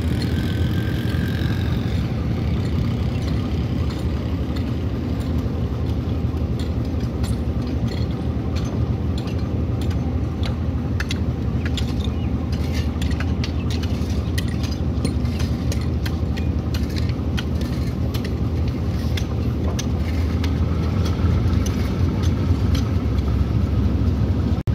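Passenger train pulling slowly out of a station, heard from aboard: a steady low rumble with irregular clicking and rattling from the wheels and carriage fittings, the clicks thickest through the middle.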